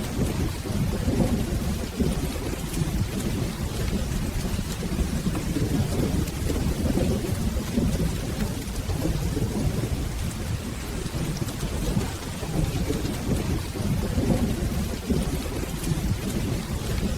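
Steady rain with a continuous low rolling rumble of thunder.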